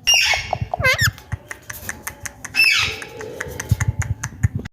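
Indian ringneck parrot squawking: a loud harsh call at the start, a quick run of warbling notes about a second in, and another harsh call a little past two and a half seconds. Light sharp clicks and low knocks are scattered between the calls.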